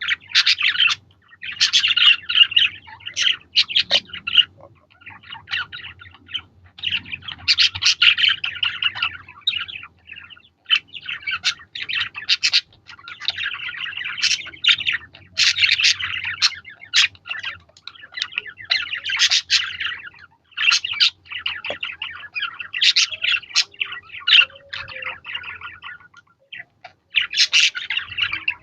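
Budgerigars chirping and chattering in rapid bouts of a few seconds each, with short pauses between.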